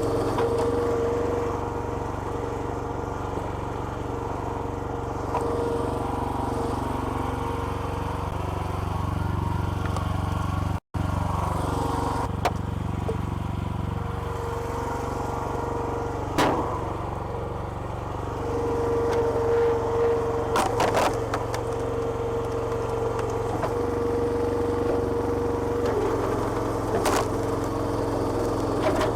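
Small petrol engine driving a homemade hydraulic log splitter, running steadily, with a pump whine that strengthens at times as the ram works. A few sharp cracks of wood splitting.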